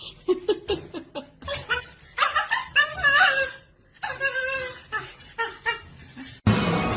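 A person laughing in short bursts. Music starts abruptly near the end.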